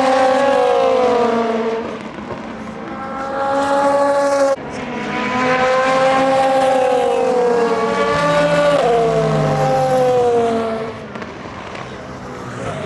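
Endurance race cars passing at speed, their engine notes rising and then falling in pitch as each goes by, one after another. The sound breaks off sharply about four and a half seconds in and a new engine note takes over.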